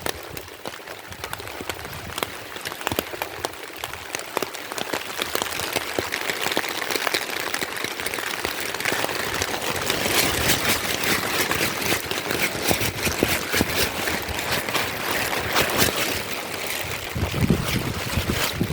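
Heavy rain falling, with many separate drops pattering close by over the steady hiss of the downpour. It grows louder about halfway through.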